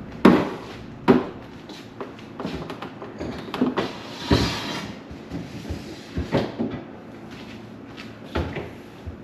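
Knocks and clatter of containers and shelf items being handled while a refrigerator is emptied for cleaning: two sharp knocks about a second apart at the start, then a string of lighter irregular bumps.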